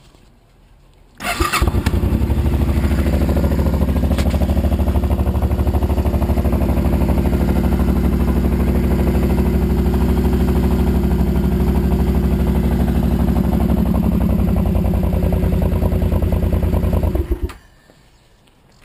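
A 2010 Suzuki C800's 805 cc V-twin, on debaffled stock exhausts, starts about a second in, idles steadily and loudly with no revving, then stops near the end.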